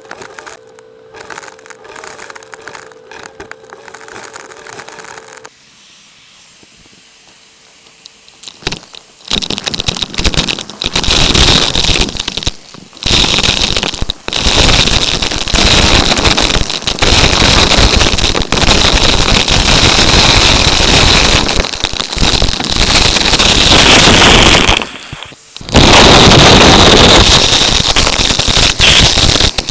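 Numatic tub vacuum cleaner: a steady hum, then after a short lull a loud crackling rattle of debris being sucked up through the hose over a high motor whine, cutting out briefly a few times.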